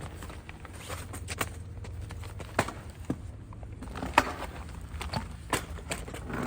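Footsteps with irregular knocks and clatter of camping gear being carried, over a steady low rumble.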